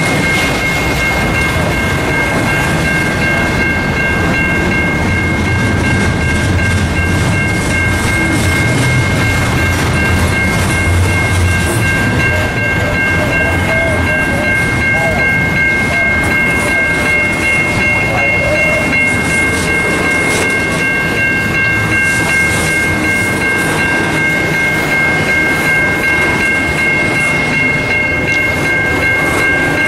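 A freight train's cars rolling past with steady rail noise and clickety-clack, heavier low rumble for a few seconds near the start. A steady high-pitched squeal of several tones rings over it throughout.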